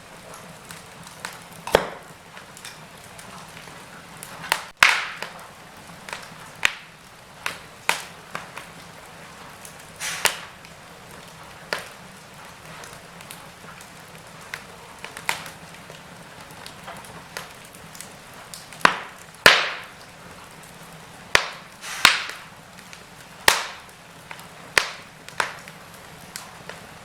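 Wood fire in a fireplace crackling: irregular sharp pops and snaps at uneven intervals over a soft steady hiss, with the loudest pops about two-thirds of the way through.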